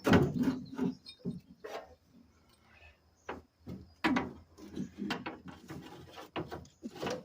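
Hand tools and metal engine parts knocking and clanking in a string of sharp clanks, the loudest right at the start, as parts are worked loose and handled.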